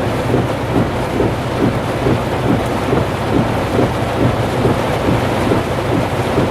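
Heavy thunderstorm rain pouring down, over a steady low rumble, with quick repeated splashing knocks about two or three times a second.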